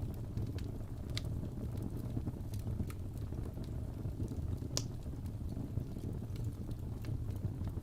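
Wood fire in a fireplace burning with a steady low rumble of flames and scattered crackles and pops of the burning logs, one sharper pop a little before five seconds in.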